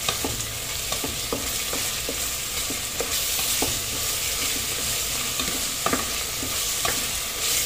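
Onions and ginger-garlic paste sizzling in hot ghee in an aluminium pressure cooker, frying off the paste's raw smell. A steady hiss runs throughout, broken by a wooden spatula scraping and tapping the pan bottom every half second or so as the mixture is stirred.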